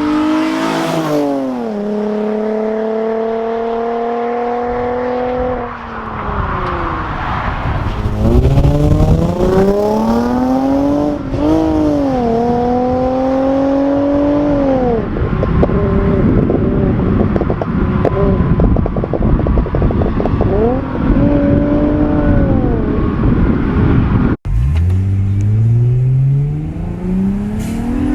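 Infiniti G35 coupe's 3.5-litre V6 through an Invidia Gemini cat-back exhaust, revving and accelerating. The engine note climbs, holds and drops several times over, with a rough crackling stretch in the middle. It breaks off abruptly, then climbs again from low revs near the end.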